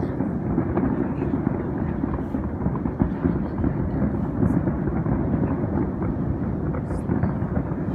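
Distant fireworks booming so closely together that they merge into one continuous low rumble.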